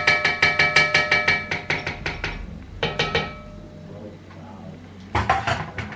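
A metal utensil knocking rapidly against a metal cooking pot, about seven knocks a second with the pot ringing, dying away after about two seconds; a few more knocks follow about three seconds in and near the end.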